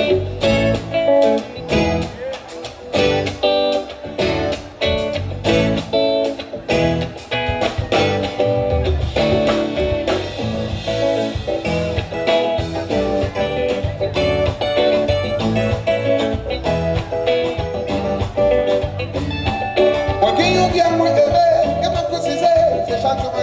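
Live band music led by guitar with a steady beat; a voice comes in singing about twenty seconds in.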